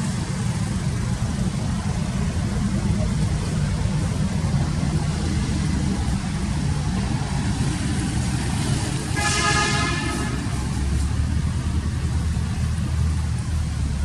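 Steady low rumble of motor traffic, with one brief high-pitched tone about nine and a half seconds in.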